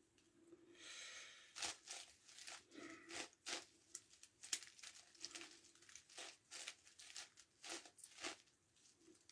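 Faint plastic clicks and scrapes of a 9x9x9 Rubik's Cube's layers being turned, a quick irregular string of short snaps with a longer sliding scrape about a second in.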